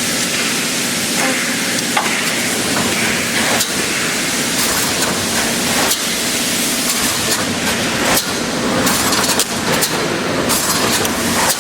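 Construction wire-mesh welding machine running: a steady, loud hiss with irregular sharp clicks and knocks.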